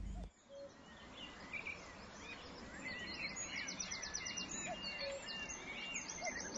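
Birds chirping and trilling, many short calls overlapping over a faint steady background hiss; the calls begin about a second in and grow denser about halfway through, with quick repeated trills.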